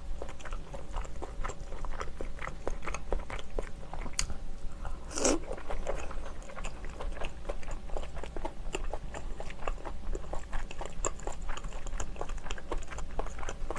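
Close-miked chewing of a piece of steamed clam meat dipped in soy sauce: a steady run of small mouth clicks and smacks, with one louder, brief mouth sound about five seconds in.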